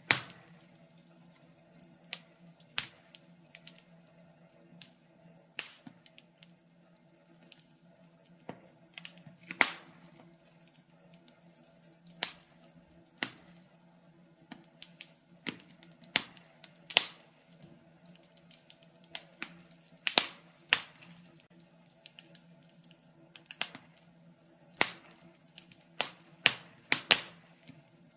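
Wood fire in a fireplace crackling: irregular sharp pops and snaps, sometimes several close together, over a faint steady low hum.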